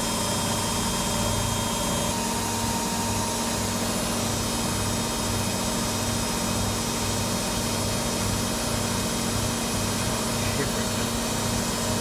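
Electra AWF683 front-loading washing machine running in its final spin, a steady motor hum with a low pulse about once a second.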